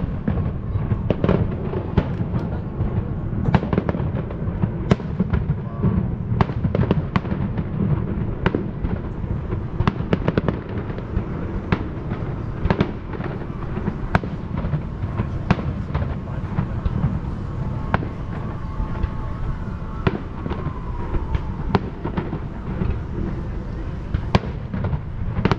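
Aerial fireworks bursting in rapid, irregular succession: many sharp bangs and crackles over a steady low rumble.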